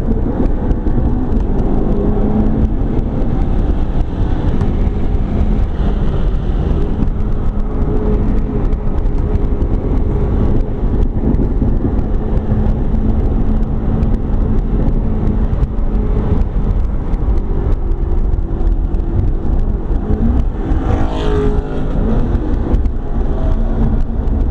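McLaren 12C's twin-turbo V8 running hard, heard from inside the cabin under heavy road and wind noise. About 21 seconds in a brief harsher rush rises above it.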